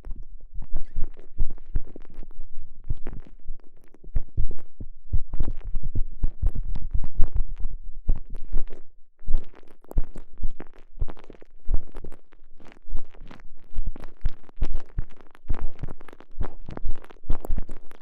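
Microphone inside a TENGA Egg's soft elastomer sleeve as the sleeve is squished and rubbed around it: close, muffled squelching and rubbing with deep thumps, in a fast, irregular run of strokes.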